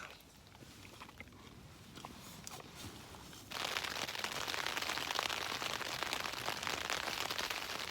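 Rain falling on the flysheet of an Alpkit Tetri tent, heard from inside: a dense hiss of fine ticks that comes in suddenly about halfway through. Before that there are only a few faint clicks.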